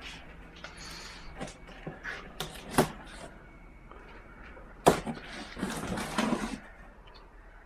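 Cardboard shipping box being opened and handled by hand: rustling with several sharp knocks, the loudest about five seconds in.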